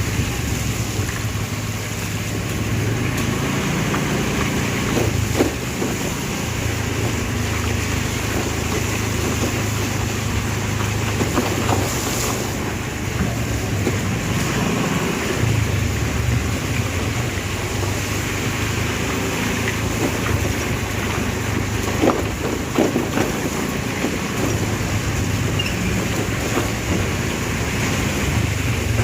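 Steady street traffic: vehicle engines running, with wind on the microphone and a few short knocks.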